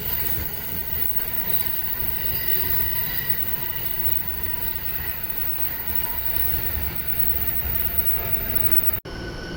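Train running on rails, a steady loud rumble of wheels with faint high ringing tones, cut off abruptly about nine seconds in and replaced by a different train sound.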